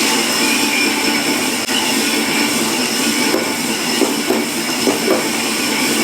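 Cylinder hone running in a Ford 302 V8 block's bore, a steady dense mechanical noise with a faint high whine, for a light final touch-up pass to bring the cylinder to size.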